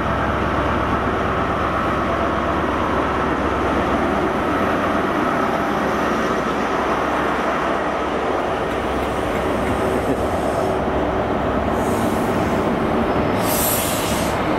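Class 43 HST diesel power car pulling out past the platform, then its coaches rolling by with steady wheel and rail noise. A brief high hiss sounds near the end.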